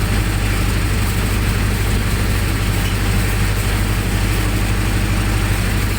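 Generator set engine running steadily at a constant speed, a loud, even low hum with mechanical noise over it.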